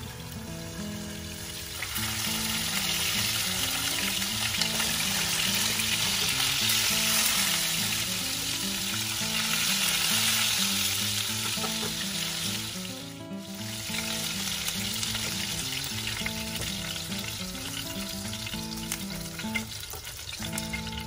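Turmeric-marinated fish fillet chunks sizzling as they fry in oil in a pan. The sizzle grows louder about two seconds in, breaks off briefly about two-thirds of the way through, then carries on more softly. Soft background music plays underneath.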